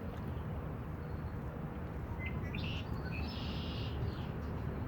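A bird calling a few times, high-pitched, starting about two seconds in, over a steady low outdoor rumble.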